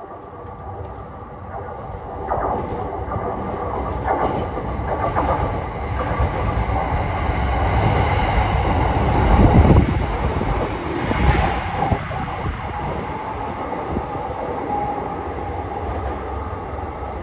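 Electric commuter train running along a station platform, its wheels clicking over rail joints. The rumble grows to its loudest as the train passes close, about nine to ten seconds in, then eases off.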